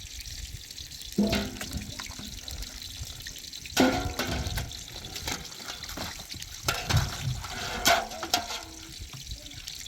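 Water running steadily, with four louder splashes or knocks.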